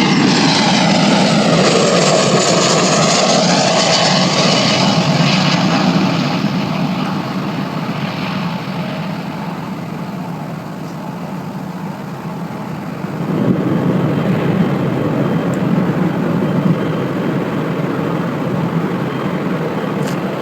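An airliner passing low overhead on landing. Its engine noise is loud with a sweeping, phasing tone for the first few seconds, fades over the next several seconds, then a lower rumble swells again about thirteen seconds in.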